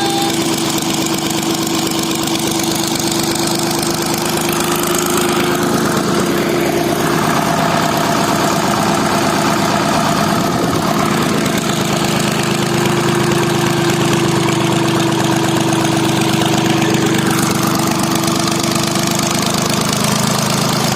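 Freshly overhauled three-cylinder Ruston diesel engine running steadily at idle. A steady hum runs over it, fades out for about five seconds in the middle, then comes back.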